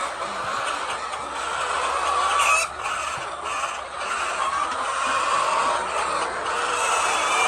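A large flock of chickens clucking and calling at once, a dense, steady din of many overlapping calls.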